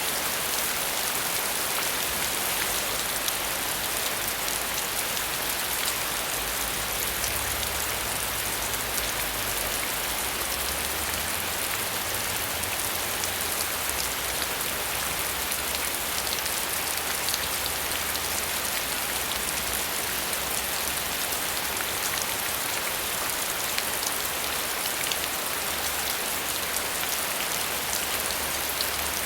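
Steady rain falling, a continuous even hiss with many fine drop patters.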